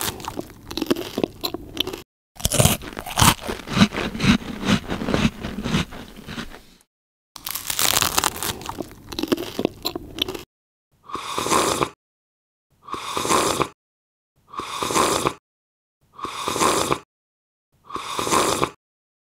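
Crunching, chewing eating sounds for about ten seconds, with a short gap partway through. Then five evenly spaced short eating sounds follow, one about every second and a half.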